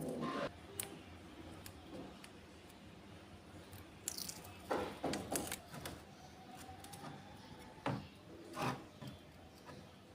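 Scattered short scrapes and clicks of tools being handled, with a light rattle; a cluster of several quick scrapes about halfway through.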